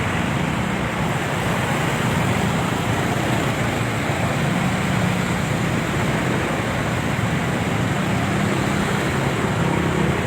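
Steady engine hum and road noise from a moving motor vehicle.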